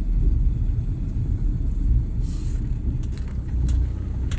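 Low, steady rumble of a car, with a brief hiss about two seconds in and a few faint ticks a little later.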